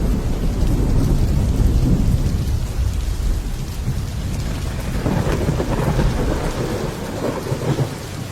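Heavy rain drumming on a metal roof with rolling thunder: a deep rumble swells over the first two seconds, and a second, sharper peal rolls in about five seconds in and fades near the end.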